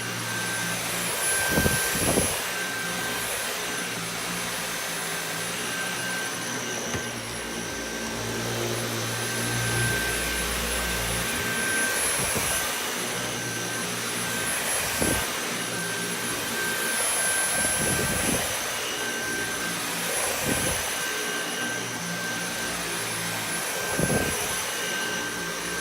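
Dyson V8 Animal cordless stick vacuum running steadily with a high-pitched motor whine as it is pushed over carpet thick with dog hair, with a short knock every few seconds.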